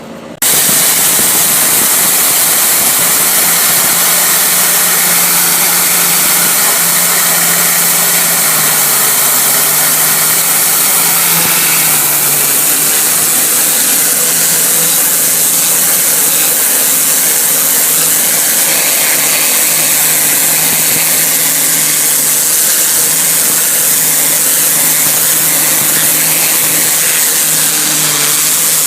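Gum-removal cleaning machine switched on about half a second in, then running steadily: a motor hum under loud, even hissing from the spray.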